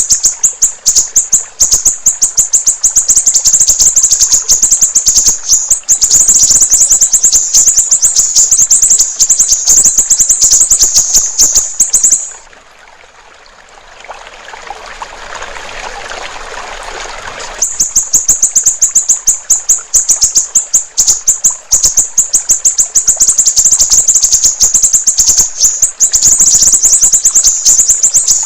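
Siri-siri bird singing a fast, loud, high-pitched run of chirps, many per second. About twelve seconds in the song breaks off for roughly five seconds, leaving a softer rushing trickle of water, then resumes.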